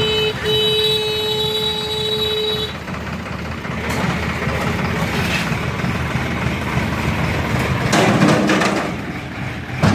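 A vehicle horn sounds a brief toot and then a longer blast of about two seconds, over a tractor engine running steadily. About eight seconds in, a short, rougher burst of noise rises over the engine.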